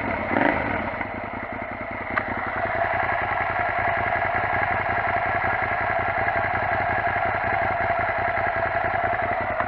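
Suzuki SV650S V-twin idling steadily through a new Delkevic 350 mm oval stainless silencer with its baffle fitted; no exhaust leaks at the joints.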